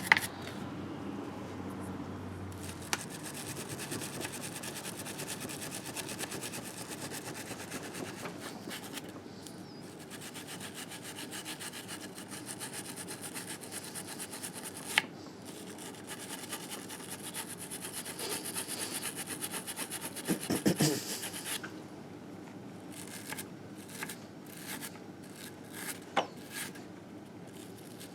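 Rapid back-and-forth scrubbing on a 1958 Harley-Davidson Sportster engine case, working off years of built-up grime, with a few sharp clicks. About 21 seconds in the scrubbing stops, leaving only scattered light clicks.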